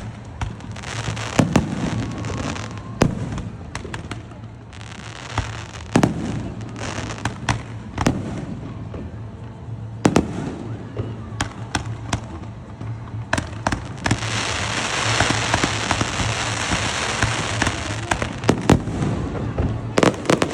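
Aerial fireworks display: sharp shell bursts going off at irregular intervals, with stretches of crackling. A dense crackle runs for about four seconds in the second half.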